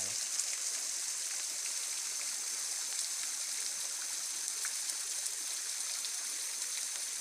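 Waterfall pouring: a steady, even hiss of falling water.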